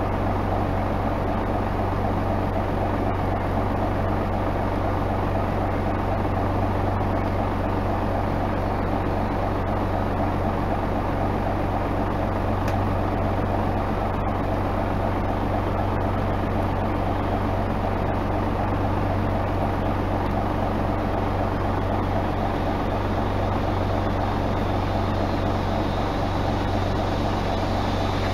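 Isuzu Erga Mio bus diesel engine running steadily at an unchanging engine speed, with a constant low hum.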